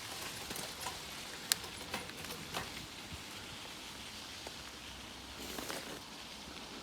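A bicycle rolling along at night: a steady hiss of tyres and moving air with scattered small clicks and ticks, and a short rustling burst near the end.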